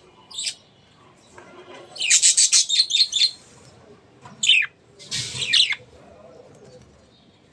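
Budgerigars chirping: a short call, then a quick run of sharp chirps about two seconds in, and more brief falling calls later on.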